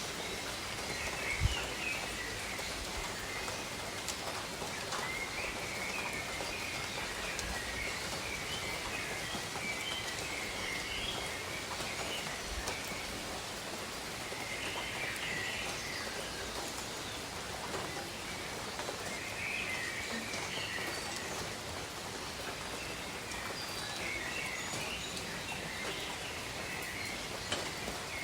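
Steady rainfall on jungle foliage, with birds chirping on and off. A single low thump about a second and a half in.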